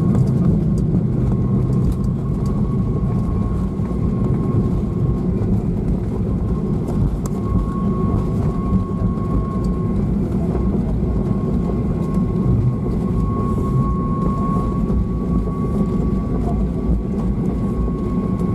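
Cabin noise of a Boeing 737-800 during landing, heard inside the cabin: a steady rumble of jet engines and airflow with a faint, steady high whine.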